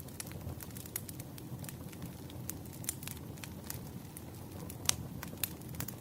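Wood fire crackling: many small sharp pops over a low steady rumble, with two louder pops about five seconds in.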